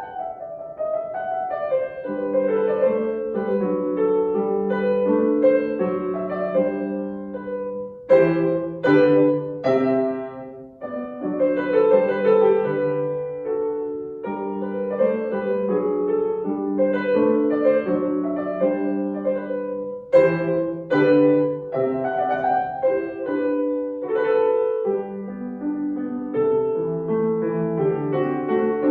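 Solo piano playing a classical piece, with sharp accented chords about eight seconds in and again about twenty seconds in.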